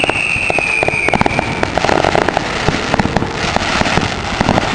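Ground-level fireworks going off close by: a rapid, uneven run of crackling pops and small bangs, with a high whistle that dips slightly in pitch and fades out a little under two seconds in.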